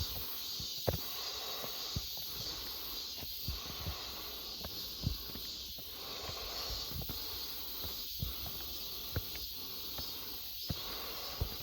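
Cicadas buzzing steadily in the trees, a continuous high shrill hiss, with footsteps thudding on wooden stair steps about once a second.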